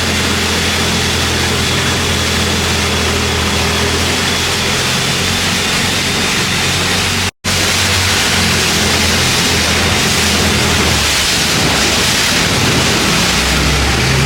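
Long-tail boat engine running steadily under way, with heavy wind and water noise. The sound drops out for a split second about halfway.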